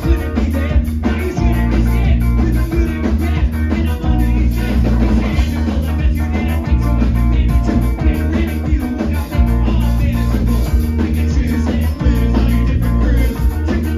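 A punk band playing live: electric guitar, bass and drum kit, loud and continuous, with a driving beat.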